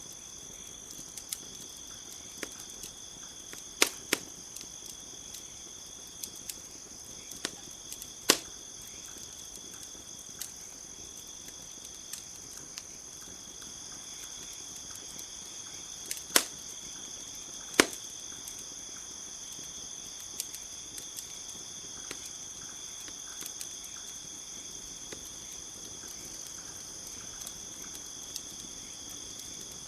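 Campfire crackling, with scattered sharp pops, several standing out loudly, over a steady high chorus of crickets.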